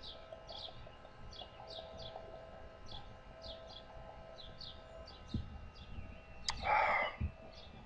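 A small bird chirping repeatedly, faint short high chirps about two a second. Near the end a brief, louder burst of noise cuts across them.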